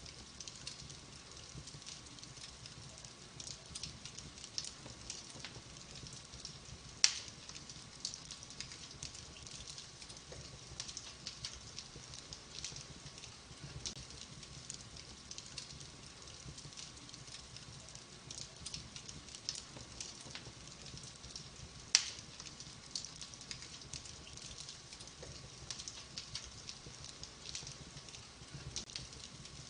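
Fireplace fire crackling: a steady run of small crackles and ticks, with two sharp, loud pops, one about seven seconds in and one about twenty-two seconds in.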